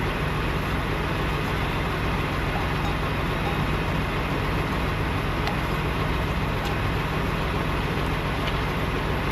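A diesel truck engine idling steadily, a constant low hum.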